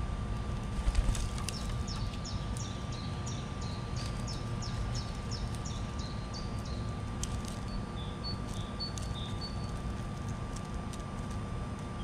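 A songbird sings a quick series of short, high, falling chirps, about two to three a second, then a few short higher notes. A cluster of sharp knocks comes about a second in, over a steady faint whine and low rumble.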